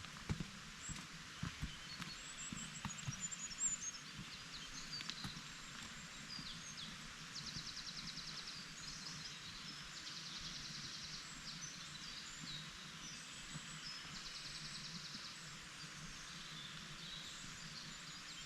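Woodland birds singing over a steady outdoor hiss, with short chirps throughout and a rapid trilled phrase repeated three times in the middle. A few soft low knocks in the first few seconds.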